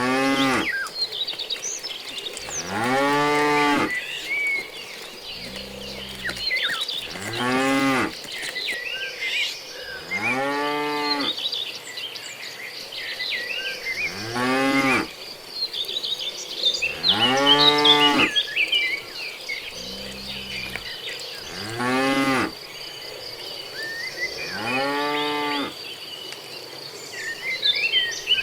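Cattle mooing again and again, one long call about every three seconds, each rising and then falling in pitch, with two lower, flatter moos among them. Birds chirp and an insect buzzes steadily in the background.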